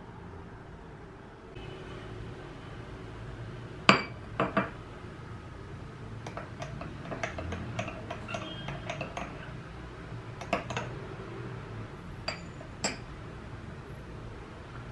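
Small hard objects clinking and tapping against each other, with a sharp ringing clink about four seconds in, two more just after, and a scatter of lighter taps and clinks following.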